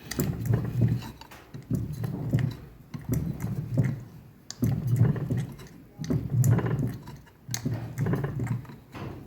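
A hand-operated fly press being worked over and over, cold-pressing vein lines into 2 mm steel plate: a run of about seven strokes, each a sudden low knock with clicks that fades over about a second.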